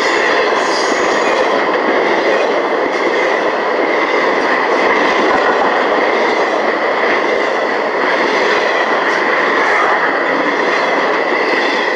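BNSF double-stack intermodal freight cars rolling past close by: a steady, loud rumble and clatter of steel wheels on the rails, with a steady high-pitched ring over it.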